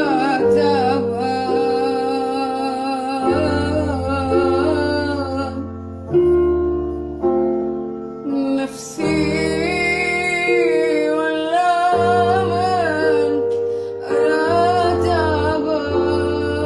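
A woman singing a wavering, ornamented melodic line over sustained keyboard chords, with brief pauses between phrases.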